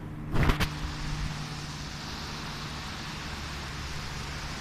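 Wind on the microphone: a loud buffet about half a second in, then a steady rushing hiss. A low engine hum fades out about two seconds in.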